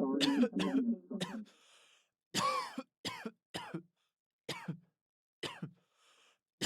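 A person coughing repeatedly, about eight short, sharp coughs in a few bouts.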